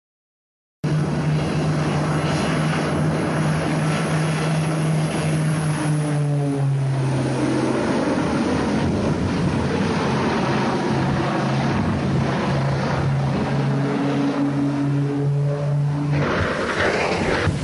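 Aircraft engines running loud and steady, their drone stepping down in pitch a few times, with a rush of noise growing brighter near the end.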